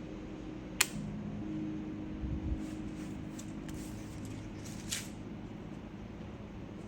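Hard objects being handled on a desk: a sharp click about a second in, a few soft knocks, and another click near five seconds, over a steady low hum.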